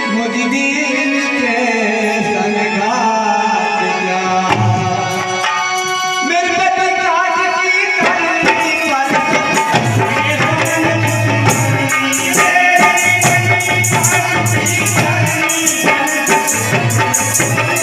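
Indian folk music instrumental passage: a melody instrument with a tabla-like drum coming in about four seconds in, then a busy rattle or shaker rhythm joins from about nine seconds in.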